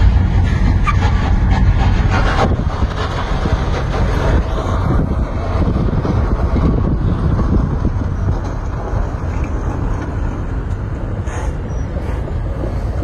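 Street traffic noise: vehicles running by with a heavy, steady low rumble, and a few brief clicks.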